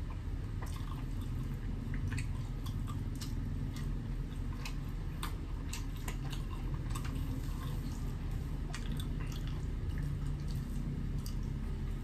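A person chewing and eating, with irregular wet mouth clicks and smacks, over a steady low background hum.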